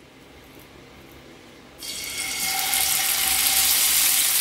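Marinated chicken drumsticks going into hot oil in a frying pan: a sizzle starts suddenly about two seconds in and builds to a steady, loud frying hiss.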